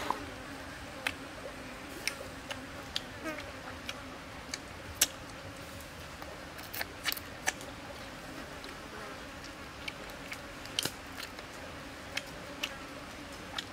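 Chewing roasted chicken: scattered sharp clicks and crunches, irregular and roughly one or two a second, over a steady low background drone.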